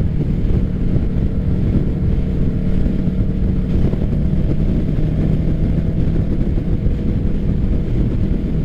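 Kawasaki Ninja 650's parallel-twin engine running through an M4 full aftermarket exhaust while riding, holding a steady pitch.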